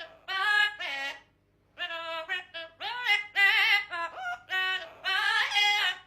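A parrot vocalising in a run of short, high, warbling sing-song phrases with vibrato, pausing briefly after about a second.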